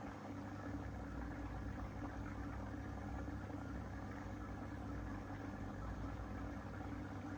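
Aquarium pump humming steadily, a constant low drone.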